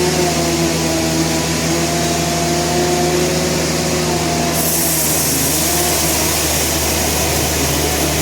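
Sawmill machinery running steadily: a constant low engine hum with a wavering whine that fades in and out, and a hiss that gets brighter about halfway through.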